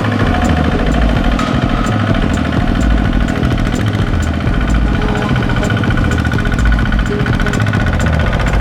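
Small Kubota farm tractor's engine running steadily with a fast, rhythmic knock, under background music with a steady beat.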